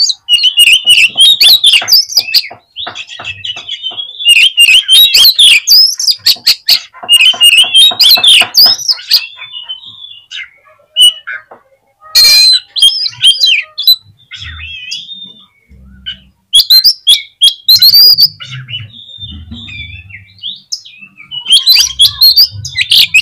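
Oriental magpie-robin singing loudly in bursts of fast, varied whistles and rapid rattling notes, broken by a few short pauses.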